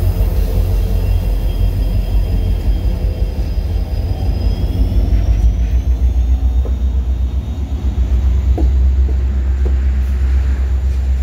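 Diesel locomotives of a CN freight train passing close by with engines running, a steady rumble with a thin high whine over it. From about halfway through, tank cars roll past with a deeper, steadier rumble and a few faint wheel clicks.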